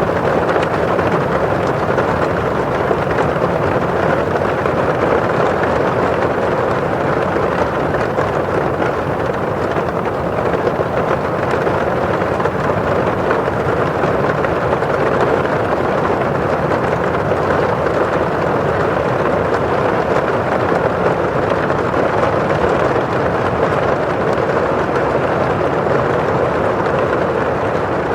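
Steady rain on a windowpane: drops on the glass over the rustle of rain falling outside, an even, unbroken wash of sound.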